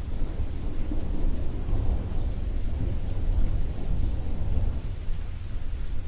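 Steady rain with a continuous deep rumble of thunder underneath, the rumble loudest part of the sound.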